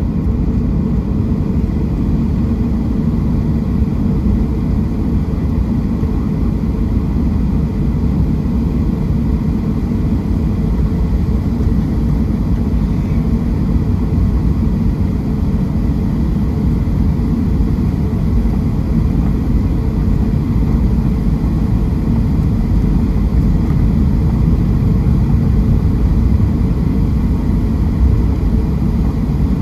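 Steady low rumble inside the cabin of a Boeing 737-700, its CFM56 jet engines running at a constant setting.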